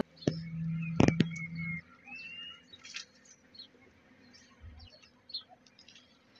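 Small birds chirping faintly, a few thin rising chirps. In the first two seconds a short low steady hum and two sharp clicks, the clicks the loudest sounds.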